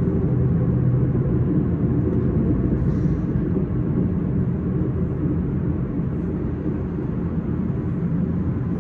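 S-Bahn commuter train running, a steady low rumble.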